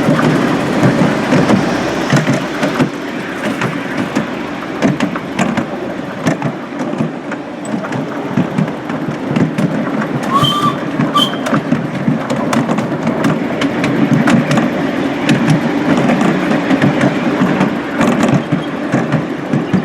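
Miniature railway locomotive running: a steady rumble with many small clicks and knocks, and two brief high tones about halfway through.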